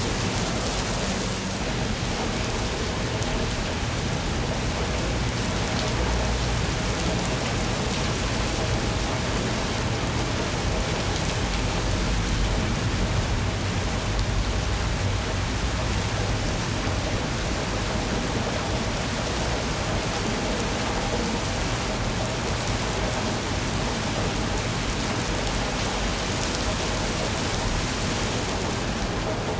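Steady rain falling: an even hiss, with a low rumble underneath.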